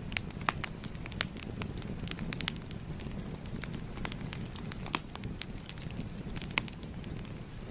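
Crackling fire: irregular sharp pops and snaps, a few much louder than the rest, over a steady low rumble of burning.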